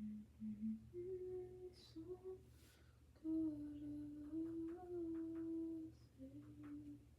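A woman humming a tune to herself, holding long notes that step up and down in pitch, with short pauses between phrases.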